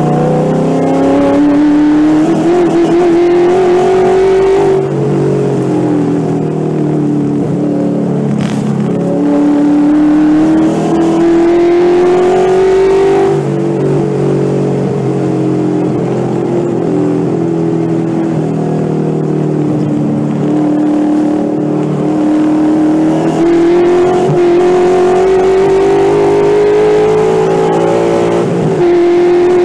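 Ford 5.0 L Coyote DOHC V8 in an SN95 Mustang race car under hard throttle on track, heard from inside the car. The engine note climbs steadily to high revs, near 6,800 rpm, and drops sharply at each gear change or lift, several times.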